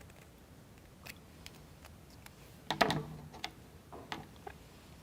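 Light clicks and taps of small plywood model-kit parts being handled and fitted together, a few scattered knocks with a louder cluster about three seconds in.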